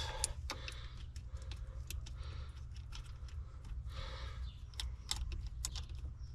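Irregular light clicks and taps of small hardware and tools being handled, over a steady low hum.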